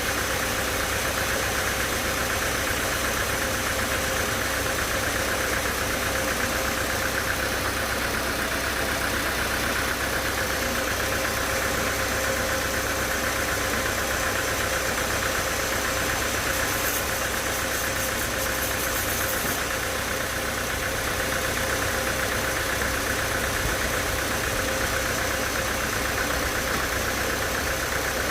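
Sawmill saw and its machinery running steadily, an even mechanical drone with a constant whine.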